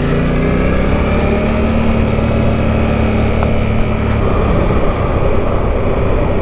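Motorcycle engine pulling on the move, its note rising slightly over the first second or so and then holding steady. About four seconds in the engine note drops away, leaving mostly wind and road noise.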